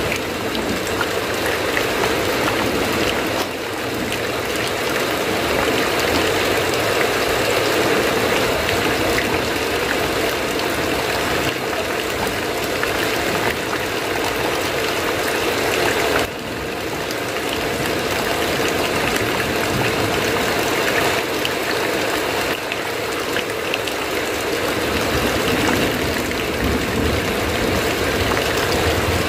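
Heavy rain falling steadily, with two short dips in level, about three seconds in and again about halfway through.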